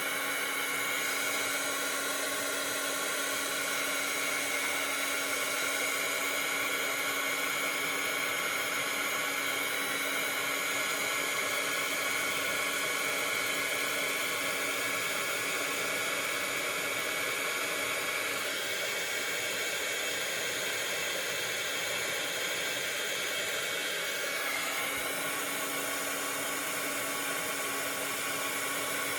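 Handheld craft heat tool running steadily, its fan whirring with a steady motor whine while it heats a Distress medium until it bubbles. The tone shifts slightly about two-thirds of the way through.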